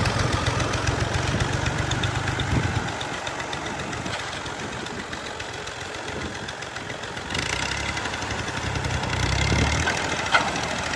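Combine harvester running: a steady diesel-engine drone under the mechanical noise of its threshing machinery. The sound shifts abruptly about seven seconds in.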